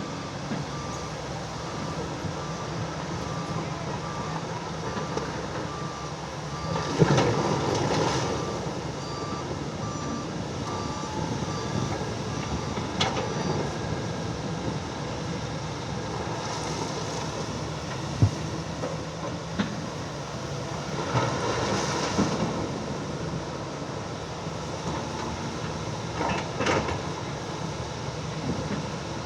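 Excavator running steadily with a repeating electronic beep, about two a second, through the first half. Louder clattering bursts come three times, about 7, 21 and 26 seconds in, with a few sharp clanks between them.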